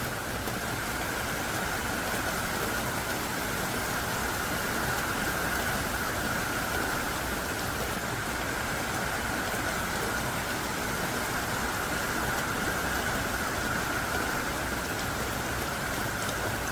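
Heavy rain coming down hard: a steady, even hiss of a downpour that does not let up.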